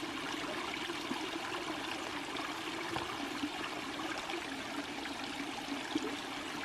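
Small woodland creek trickling and gurgling over rocks, a steady water sound.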